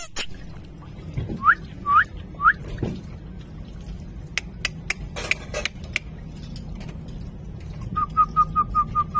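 Pet parrot whistling: three short rising whistles about a second and a half in, then a quick run of about eight short chirps near the end, with a few sharp clicks in between.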